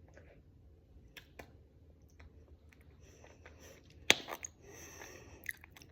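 Light handling noises with scattered small clicks, and one sharp click about four seconds in followed by a brief rustle.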